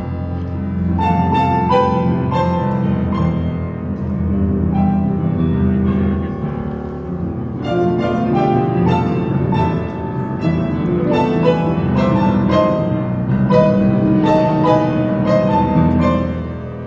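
Instrumental music led by piano, playing quick phrases of struck notes and chords over a low accompaniment.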